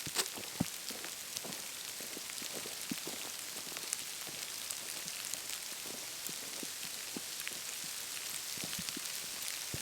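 Wood campfire crackling: a steady hiss with many small, irregular pops and snaps.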